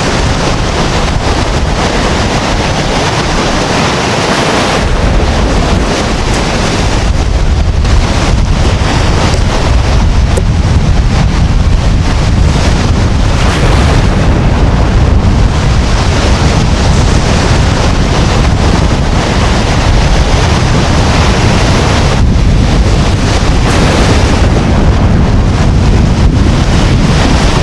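Strong wind buffeting the microphone over heavy surf breaking on a beach as a storm approaches, a loud, steady rush that swells and eases with the gusts.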